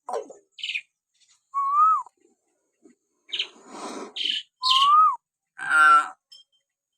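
Hill myna calling: two clear, slurred whistles that rise and then fall, mixed with short, harsh, raspy calls.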